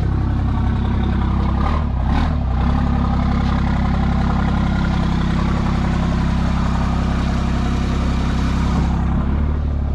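Truck engine running steadily at low speed, with a couple of brief knocks about two seconds in.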